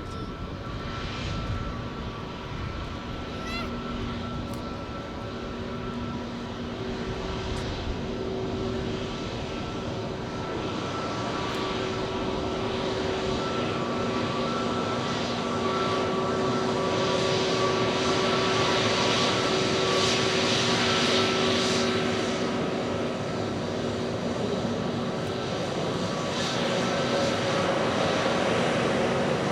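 Airbus A321neo's Pratt & Whitney geared-turbofan jet engines running at taxi power: a steady whine with several held tones over a rushing noise, growing gradually louder as the aircraft taxis closer.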